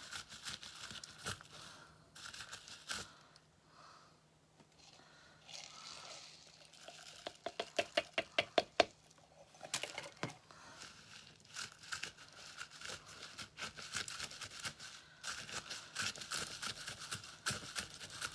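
Crinkling and light clicking as small craft pieces are handled, with a quick run of sharper taps, about four a second, around the middle.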